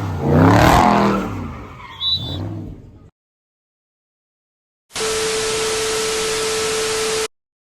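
Car engine revving, its pitch rising and falling, loudest in the first second, with a brief high chirp about two seconds in; the sound cuts off dead at about three seconds. After a gap of silence, a steady hiss with a held tone plays for about two seconds and stops abruptly.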